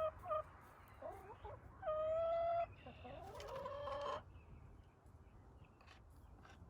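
Hens calling: a short call at the start, then two drawn-out calls about two and three seconds in.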